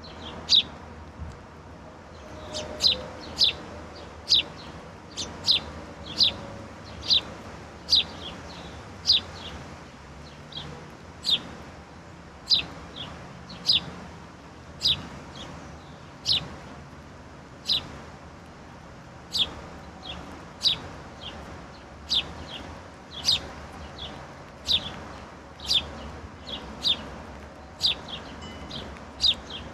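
Songbirds giving short, sharp chip calls over and over, about one a second and sometimes in quick pairs, against a faint steady low background.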